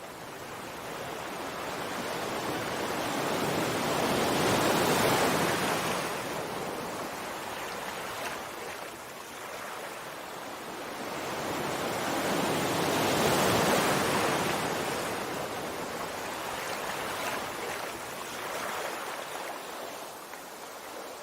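Sea waves surging and washing onto the shore, swelling to a peak about five seconds in and again about thirteen seconds in, then fading.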